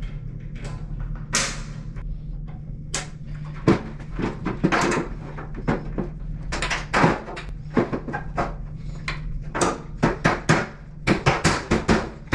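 Parts on the front of a dryer being pushed and snapped back into their tabs: a string of irregular clicks and knocks that come faster near the end, over a steady low hum.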